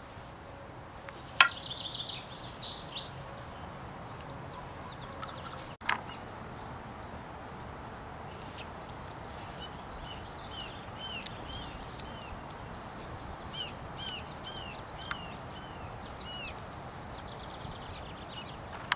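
Small birds chirping, with a short hooked chirp repeated many times over several seconds in the second half. A sharp click comes about a second and a half in, and a few lighter clicks follow later.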